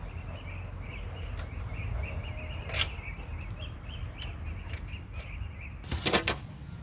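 A steady low rumble with a high chirping repeated a few times a second, broken by a sharp crack about three seconds in and a louder quick cluster of cracks or knocks near the end.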